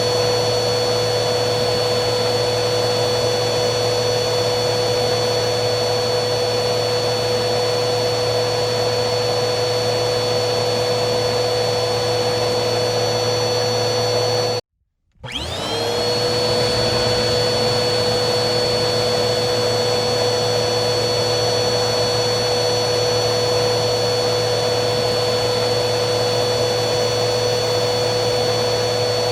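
Vacuum cleaner motor running with a steady whine over airflow noise. About halfway through it cuts out for half a second, then comes back with its pitch quickly rising to the same steady whine.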